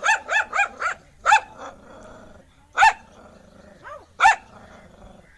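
Dog barking aggressively: a quick run of about five barks, then single barks spaced about a second and a half apart, with low growling in between.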